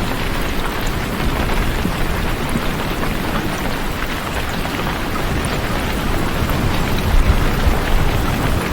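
Steady, heavy rain falling, with a low rumble swelling near the end.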